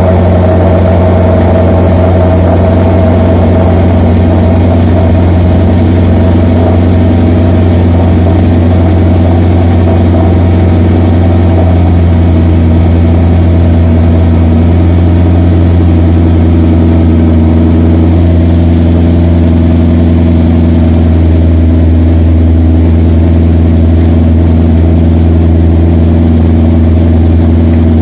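Maserati GranTurismo V8 idling steadily soon after a cold start, heard close to the quad exhaust tips.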